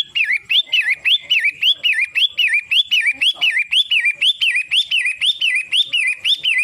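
Long-tailed shrike (pentet / cendet matahari) calling in a fast, even series of loud whistled notes, about four a second, each rising and then falling in pitch.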